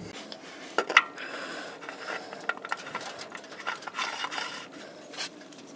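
A new spin-on oil filter being threaded onto its mount by hand: scattered light clicks, taps and short rubbing scrapes as the canister turns.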